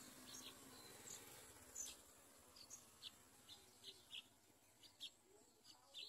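Faint, brief high-pitched bird chirps, about a dozen at irregular intervals.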